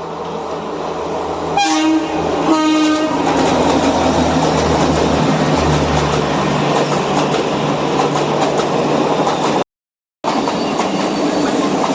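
Train passing through a small railway station: two short blasts on the horn about one and a half seconds and two and a half seconds in, then a loud, steady rumble of the train running past. The sound breaks off abruptly for about half a second near the end.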